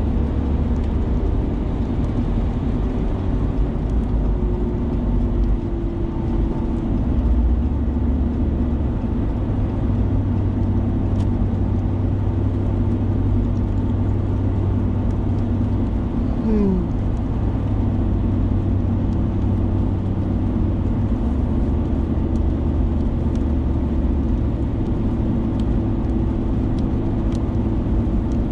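Steady engine and road noise heard from inside a moving vehicle's cabin, a constant low rumble with a few held hum tones.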